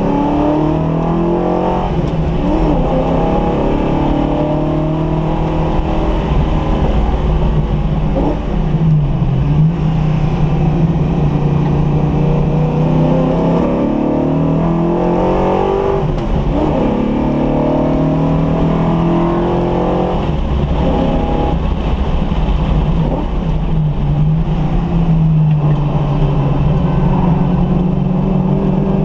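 Car engine being run in, driven under load on a race circuit: its pitch repeatedly climbs and then drops back, over a dense low rumble.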